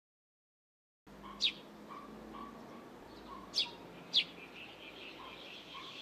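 Bird chirps over a quiet outdoor background: three short, sharp chirps sweeping down in pitch, one about a second and a half in and two close together a little after three and a half seconds, with fainter, softer calls between. The first second is silent.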